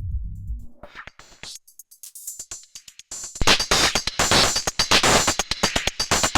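Electronic drum-machine pattern playing through an Erica Synths Black series Eurorack filter, its tone changing as the filter setting moves. Low bass notes give way to thin, high hits about a second in, and from about three and a half seconds the full, bright, dense pattern comes through.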